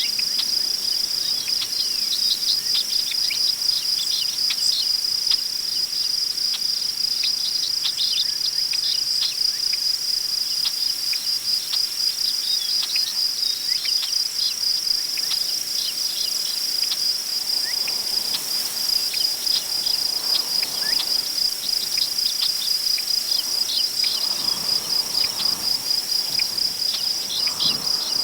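Crickets chirping in a steady, fast-pulsing high chorus, with scattered faint bird chirps. From about two-thirds in, wind rustles through tall grass in soft gusts.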